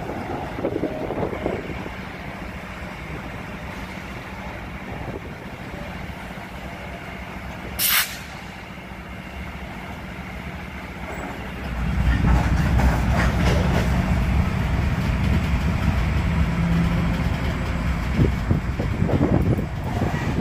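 Slow-moving Union Pacific freight train of hopper cars rolling past, with a short sharp burst of air hiss about eight seconds in. From about twelve seconds the train's diesel locomotives come up to a much louder, steady low rumble.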